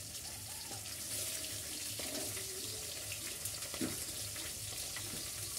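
Food sizzling steadily in hot oil in a wok over the stove, with a few light scrapes and taps of a metal spatula stirring it.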